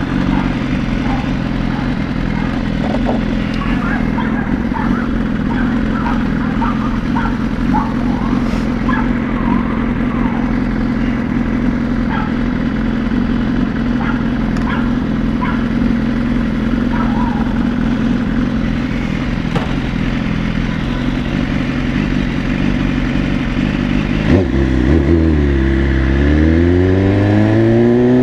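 BMW S1000RR motorcycle's inline-four engine running at a steady pitch. Near the end the revs drop, then climb back up.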